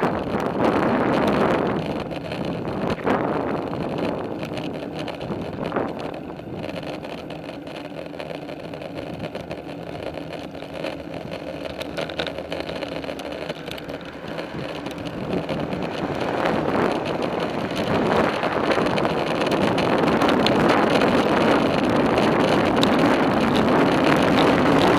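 Riding noise from a moving bicycle: wind rushing over the microphone and tyres rolling on the trail, with a low hum underneath. It fades through the middle and builds again for the last several seconds.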